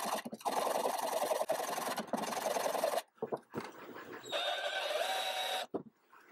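Rough rasping scrape of workshop hand-tool work on the circular saw's parts, for about three seconds with brief breaks. After a pause comes a quieter stretch carrying a faint steady whine.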